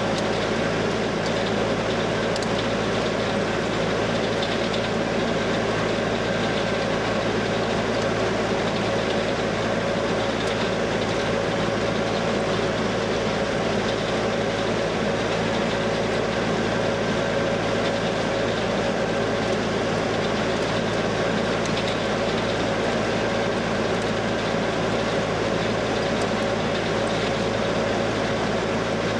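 Diesel farm machinery at silage harvesting, running steadily at working speed, with a constant whine over the engine note.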